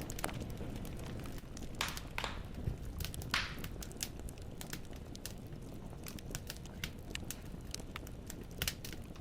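Firewood burning in a fireplace, crackling with irregular sharp pops over a low steady background noise of the fire.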